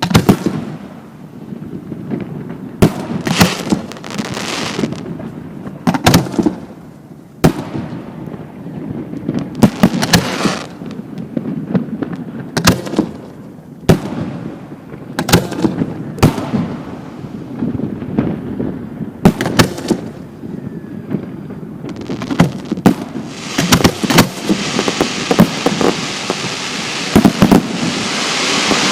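Fireworks display: aerial shells bursting with sharp bangs every second or two, with a low rumble of echoes between them. A loud, steady rushing hiss builds over the last few seconds.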